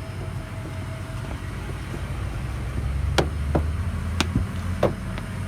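An engine running steadily with a low, even rumble, with four sharp knocks or clicks about three to five seconds in.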